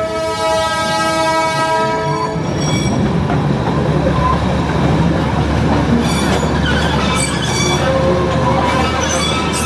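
Darjeeling Himalayan Railway narrow-gauge train sounding one long horn blast that stops about two seconds in, then running on with a steady rumble and rattle of the carriages and faint wheel squeals.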